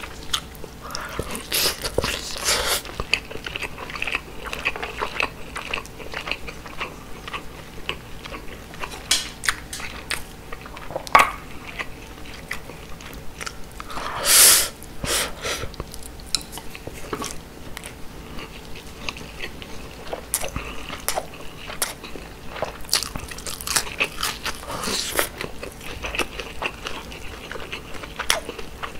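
Close-up mouth sounds of someone eating grilled mackerel with rice: wet chewing, biting and lip smacks, in many short clicks throughout. There is one louder, longer burst about halfway through.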